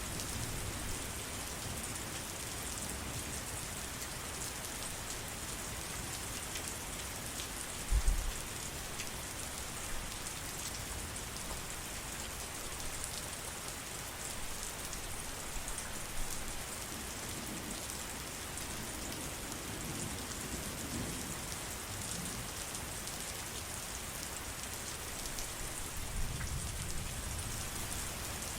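Steady heavy rain falling, an even hiss without pause. A short low thud comes about eight seconds in, and low rumbling swells in near the end.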